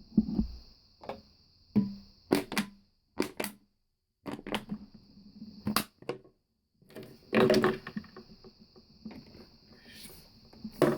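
Bottles being handled and struck: a series of sharp knocks and clicks, some with a short low ring, and a longer noisy stretch of crunching about seven seconds in.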